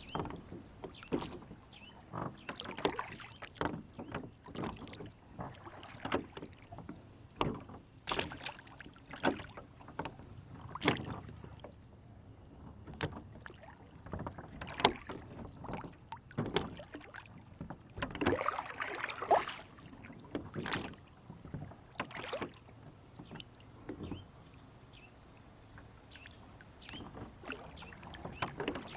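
Rowboat on a lake: water splashing and lapping against the hull, with irregular knocks and small clicks every second or two and a longer splash past the middle.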